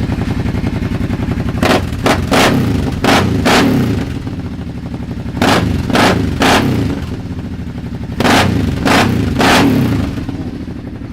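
Kawasaki Teryx V-twin engine through a Yoshimura dual aftermarket exhaust, idling between three bursts of quick throttle blips, three or four sharp revs in each burst.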